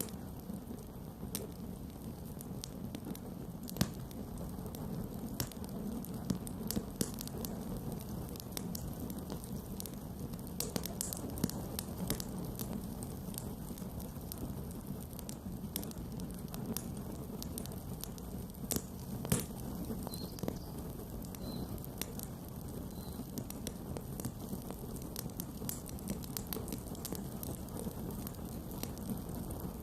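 Campfire burning: a steady low rush of flames with frequent small crackles and pops, and a couple of louder snaps.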